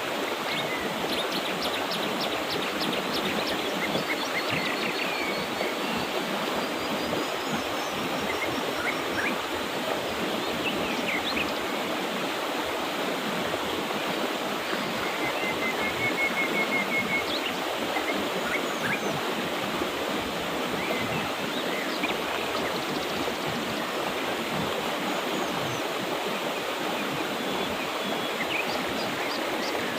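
Mountain river flowing steadily, with birds chirping over it: a run of quick chirps near the start, a long high trill, and a lower trill about halfway through.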